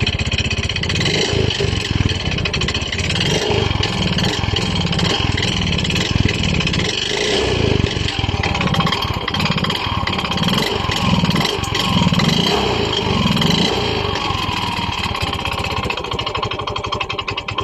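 Yamaha Mio i 125 scooter's single-cylinder four-stroke engine running with a loud mechanical noise from inside the engine, which the mechanic says could be piston slap or a connecting rod.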